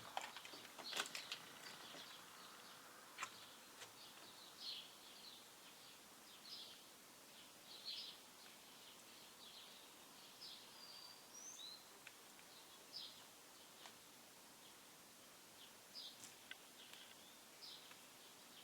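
Quiet outdoor ambience with faint, scattered bird chirps, and a few light clicks in the first few seconds.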